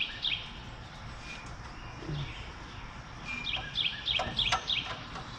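A bird calling in quick runs of short, high chirps, about five a second: one run right at the start and another about three and a half seconds in. A few sharp clicks come near the end.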